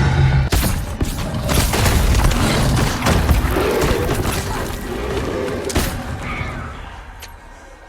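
Film soundtrack action: a series of loud crashes and booming impacts over a low rumble and music, fading away near the end.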